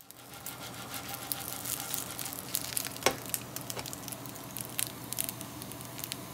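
Pan-fried dumplings sizzling in a frying pan: a dense crackle of small pops that fades in over the first second, with one louder pop about three seconds in.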